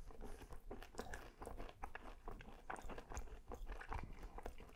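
Close-miked chewing of a crisp falafel waffle: soft, irregular crunches and small wet mouth clicks as the mouthful is worked.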